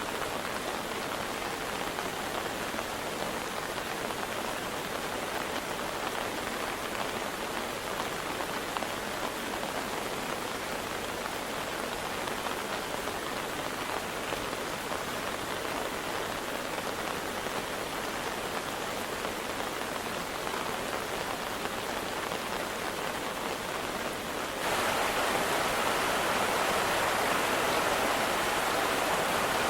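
Steady hiss of rain falling, mixed with rushing water. About 25 seconds in it cuts abruptly to a louder, fuller rush of water, like a swollen river pouring over a weir.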